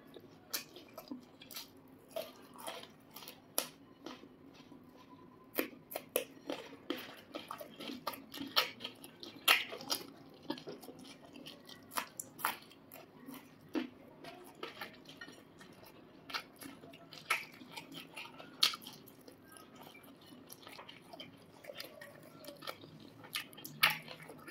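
Close-up eating sounds: chewing and mouth clicks from hand-eating rice, fried chicken and raw chilies, with many short, sharp clicks at irregular intervals.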